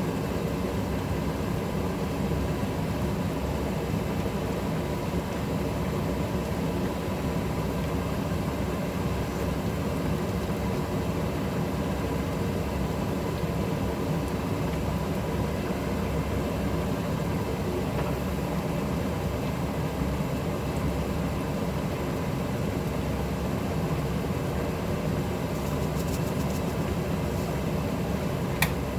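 Steady mechanical hum and hiss of a kitchen range hood fan running, with a sharp click near the end.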